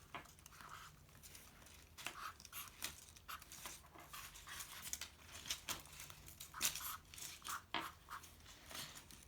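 Dry leaves crinkling and tearing in short, irregular rustles.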